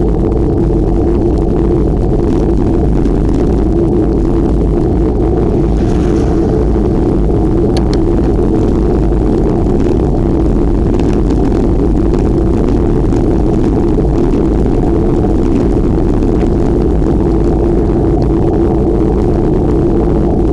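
Steady, loud wind and road rumble on a microphone carried on a moving bicycle, low and unbroken.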